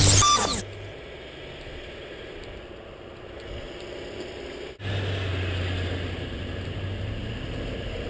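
Music fading out in the first second, then a steady low engine hum under background noise, louder after an abrupt cut about five seconds in.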